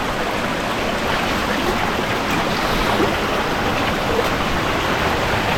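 Steady rush of running water from a shallow stream flowing over rocks in a canyon.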